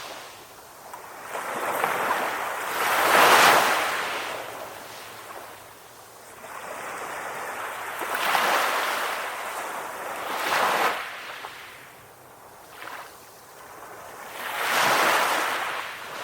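Calm ocean waves washing in, rising and falling in about four surges of rushing water, the strongest about three seconds in.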